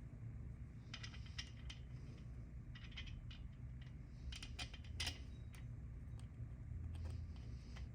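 Light clicks and clinks of hand tools and small parts being handled during teardown of a 50cc two-stroke motorcycle engine, in a few short clusters with the busiest run about halfway through, over a low steady hum.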